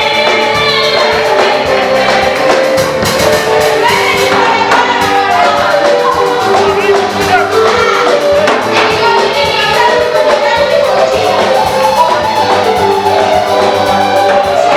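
A choir singing an African gospel song in harmony, over a band with drums keeping a steady beat.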